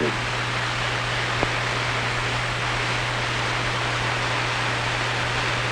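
Steady hiss with a low hum from an old film soundtrack, with one faint tick about a second and a half in; no birdsong.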